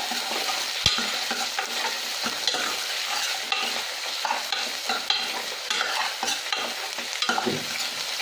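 Onions and chopped tomato sizzling in hot oil in a kadai while being stirred, the utensil scraping and clicking against the pan, with one sharp knock about a second in.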